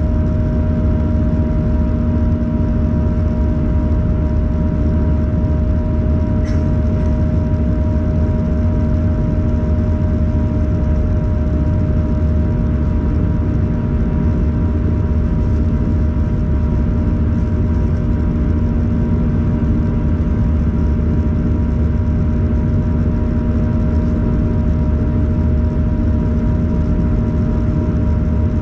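Cabin noise inside an Airbus A321-111 in flight: a steady deep rumble of its CFM56 turbofan engines and the airflow, with a few steady hum-like tones held over it.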